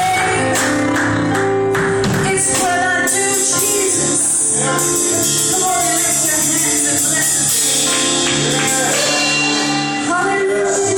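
Live gospel praise music: singers over a band, playing steadily at a loud level.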